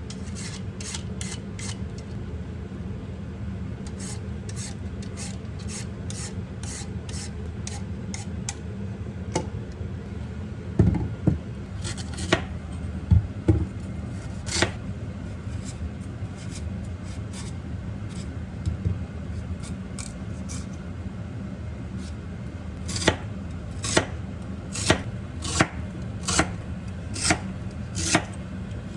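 Kitchen knife chopping on a cutting board: runs of quick taps, a few heavier knocks about halfway through, then slower single strokes near the end, over a steady low hum.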